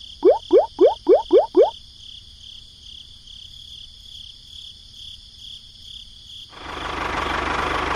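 A frog croaks six times in quick succession, each call rising in pitch, over steady pulsing cricket chirping. About six and a half seconds in, a loud even noise takes over.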